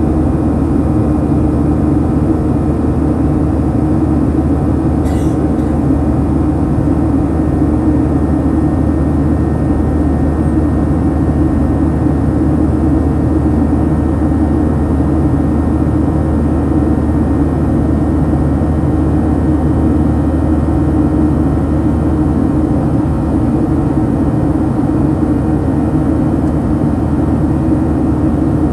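Steady cabin noise inside a Boeing 737-900 in its climb: the CFM56-7B engines at climb power and air rushing past the fuselage make an even, deep drone with a low hum.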